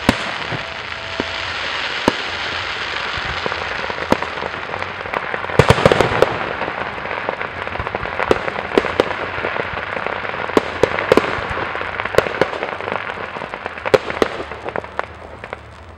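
Aerial fireworks display: a dense, continuous crackling with many sharp bangs scattered through it. The loudest cluster of bursts comes about six seconds in, and the crackle tapers off near the end.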